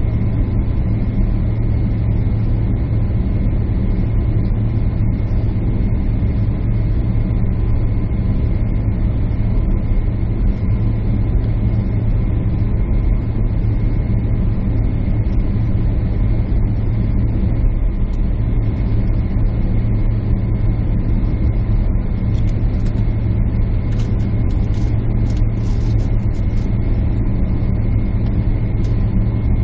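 Jet airliner cabin noise: a steady drone of engines and airflow heard from a window seat, with a deep hum and even rushing noise that holds level throughout.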